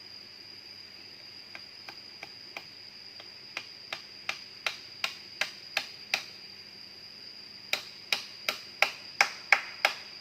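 Steady high-pitched insect drone, with two runs of sharp taps or knocks, about three a second and growing louder, starting about a second and a half in and again near the end.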